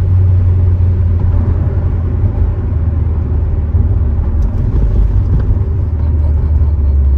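Cammed, supercharged 6.2-litre LT4 V8 of a C7 Corvette Z06, heard from inside the cabin while driving, with a steady deep engine and exhaust drone over road noise. The drone dips slightly in pitch near the end.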